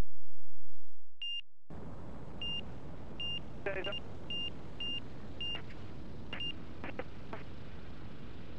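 Light aircraft cockpit with steady engine and wind noise and a run of short, high electronic beeps repeating at an even pace, about one to two a second. A few clicks come near the end.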